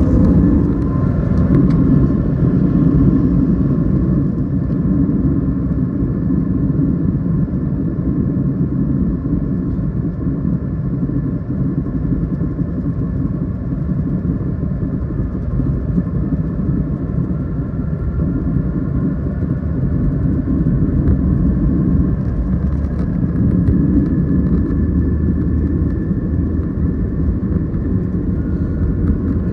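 Steady low rumble of a jet airliner cabin with the engines running, with a faint high whine drifting slightly in pitch over it.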